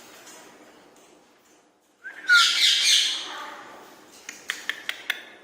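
Rose-ringed parakeet giving a short falling whistle, then a loud harsh squawk about two seconds in. Several sharp clicks follow near the end.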